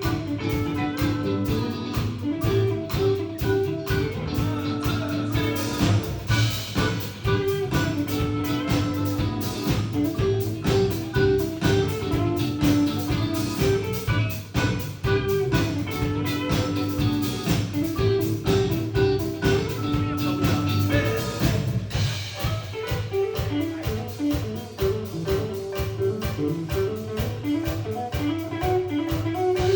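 Live band playing a mellow jazz-funk groove: guitar riffing over bass and a drum kit keeping a steady beat. About two-thirds of the way through, the melodic line changes to quicker moving notes.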